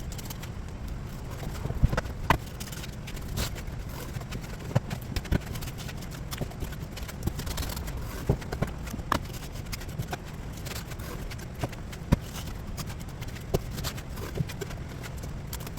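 Scattered sharp knocks and taps, unevenly spaced, over a steady low hum, as live pike conger are handled for filleting.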